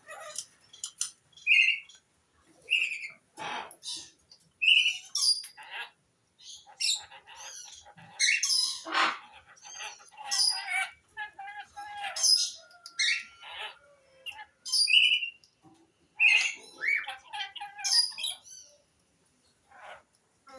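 Male Alexandrine parakeet calling in a series of short squawks and chirps with brief pauses between them, typical of a cock bird in breeding condition.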